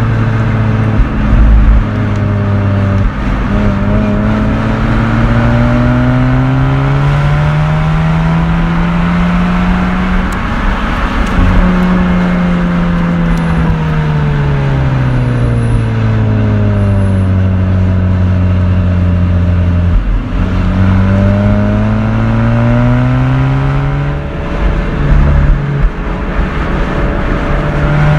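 Mazda RX-8's naturally aspirated two-rotor rotary engine and exhaust, driven hard downhill on a winding road. The revs climb over about the first ten seconds, sink slowly until about twenty seconds in, then climb again, with brief louder bursts near the start and about 25 seconds in.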